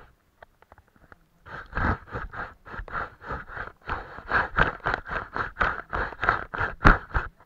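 Paintbrush strokes scratching on paper: a quick, even run of short strokes, about four a second, starting about one and a half seconds in.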